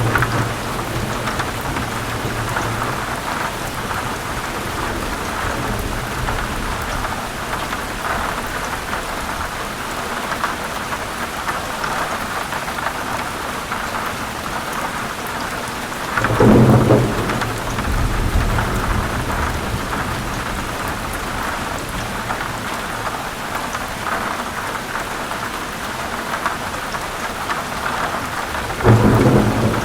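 Heavy rain falling steadily on forest leaves, with thunder rumbling low in the background. Two louder thunder rolls come through, one just past the middle and another near the end.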